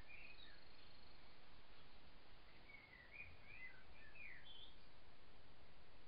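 A bird singing faintly in short warbling phrases, a few notes near the start and a longer run of them from about the middle, over a steady hiss.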